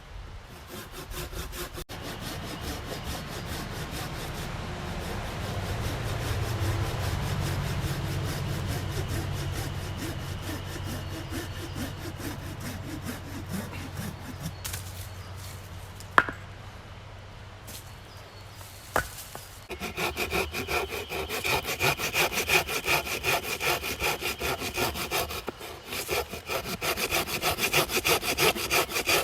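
Hand saw cutting through fallen-tree wood in fast back-and-forth strokes. The sawing stops for a few seconds with a couple of sharp knocks, then resumes louder about two-thirds of the way in.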